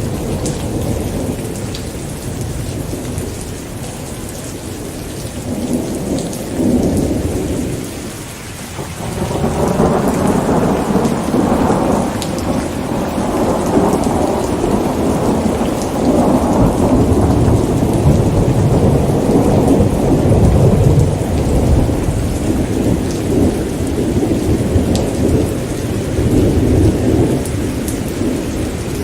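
Steady rain falling, with scattered drops ticking, under rolling thunder. The rumbling dips briefly about a third of the way in, then swells again and keeps rolling.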